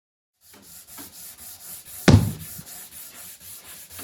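Sandpaper rubbed back and forth by hand over wooden trim, in strokes of about two or three a second. One loud knock about two seconds in.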